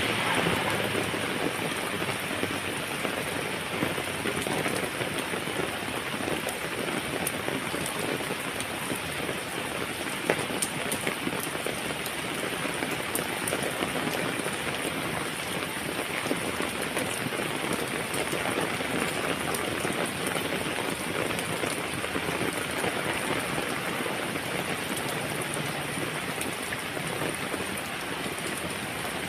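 Heavy rain falling steadily, with many small sharp taps of raindrops striking a surface.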